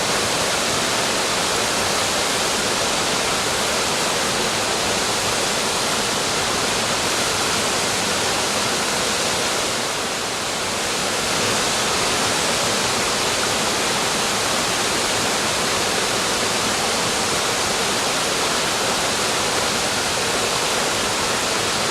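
Waterfall: a steady, loud rush of falling water, dipping slightly about halfway through.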